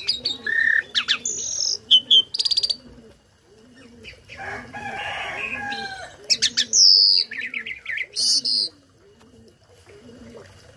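A tame starling (jalak) singing a varied, loud song of sharp whistles, sweeping notes, rapid trills and a harsh chattering phrase, the kind of mimicked-song 'isian' kept as a tutor for other songbirds. The song goes quiet for the last couple of seconds.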